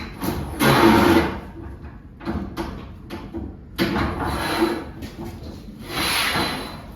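Garage door torsion spring hardware being moved and handled: four scraping, sliding bursts, the loudest about a second in.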